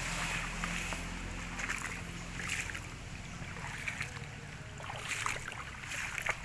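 Outdoor water ambience: a steady low rumble with scattered faint ticks and small splashes of water.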